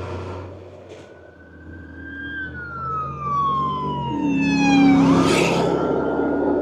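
A siren wailing, its pitch sliding slowly down and then swinging back up about five seconds in, as a vehicle rushes past loudly around the same moment, over the steady wind and road noise of the ride.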